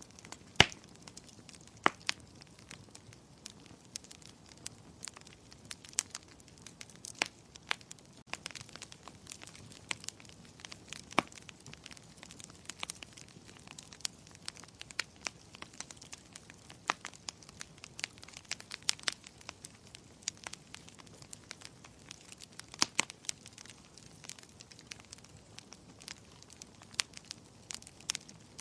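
Wood fire crackling in a fireplace: irregular sharp pops and snaps, several a second, over a soft steady hiss, with a louder pop about half a second in.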